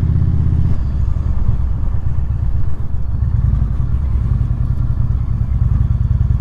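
Indian Super Chief Limited's V-twin engine running at low revs as the motorcycle slows and rolls along.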